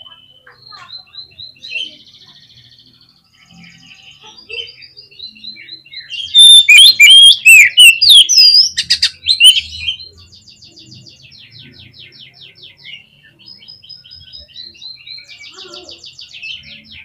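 Oriental magpie-robin singing a varied song of quick trills and short whistled notes. A loud burst of sweeping, rising and falling whistles comes near the middle, then fast rattling trills follow.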